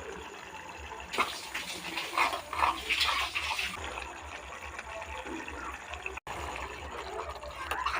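Water running and splashing, as from a kitchen tap, louder between about one and four seconds in.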